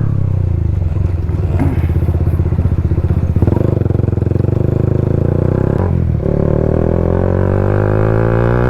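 Bajaj Pulsar NS200's single-cylinder engine running through an aftermarket Akrapovic full-system exhaust while riding. The note dips briefly about six seconds in, then climbs steadily in pitch as the bike accelerates.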